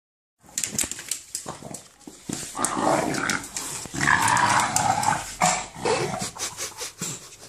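English bulldog making its rough, growl-like 'monster sound' while playing, loudest from about two and a half to six seconds in, with many short clicks and knocks throughout.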